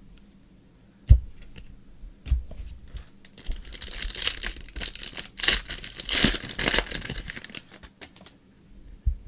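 A trading-card pack wrapper being torn open and crinkled, with a hissy crackle for a few seconds in the middle. There is a sharp knock about a second in and another near the end.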